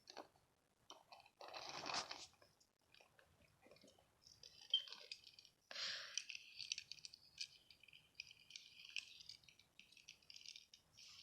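Faint crinkling and rustling handling noise in irregular bursts, with a denser burst about two seconds in.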